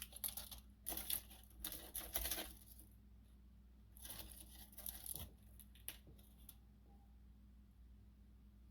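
Plastic bag of frozen fries crinkling and rustling as it is handled, in spells during the first couple of seconds and again about four seconds in.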